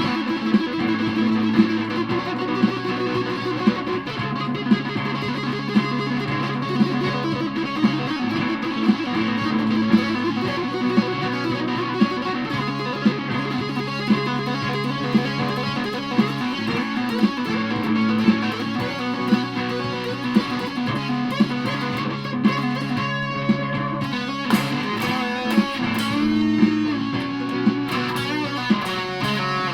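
Aria Pro II Thor Sound electric guitar played through a fuzz pedal: a continuous distorted riff of sustained notes, with sharp accents at a fairly even pace.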